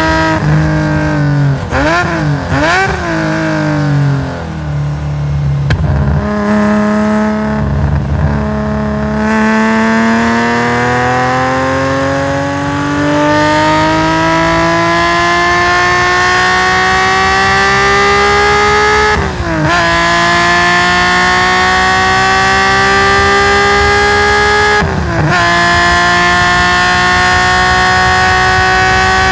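Nissan S20 straight-six of a race-tuned Skyline GT-R, loud, heard onboard through its straight exhaust. In the first seconds its revs rise and fall several times in quick blips, then it pulls a long steady climb through the revs, broken twice by quick drops and recoveries as the sequential gearbox changes up.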